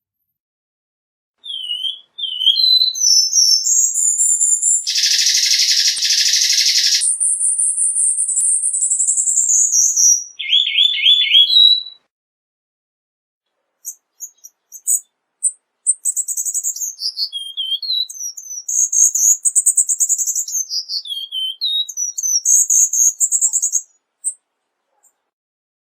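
Cuban bullfinch singing: two long phrases of high, thin whistles sliding up and down, with a gap of about two seconds between them. The first phrase has a harsh buzzy stretch and ends in a short trill.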